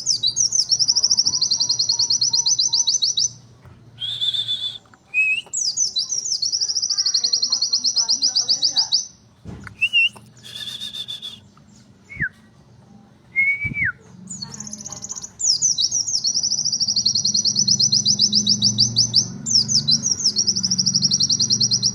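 Pleci (white-eye) singing in long, fast, high trilled bursts of several seconds each, the rapid-fire 'nembak' song style. Short clear whistles and upslurred notes come between the bursts.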